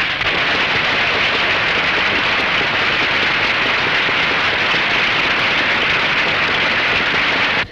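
Crowd applauding steadily, a dense clatter of clapping acknowledging a batsman's fifty, heard through an old film soundtrack. It cuts off suddenly near the end.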